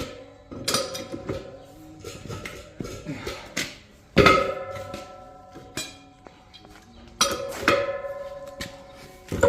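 Steel clanking and ringing at irregular intervals as a wrench on a cheater pipe works a rusted nut along damaged threads. Several louder clanks ring on, the strongest about four seconds in, with two more a little after seven seconds and one near the end.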